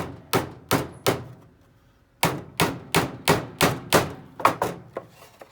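Hammer striking nails being started into the wooden boards of a bird feeder: four blows, a pause of about a second, then a run of about eight blows at roughly three a second.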